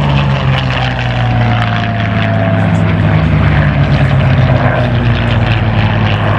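Hispano Buchon's Rolls-Royce Merlin V12 piston engine running hard as the fighter makes a flypast, its note falling slowly in pitch as it goes by.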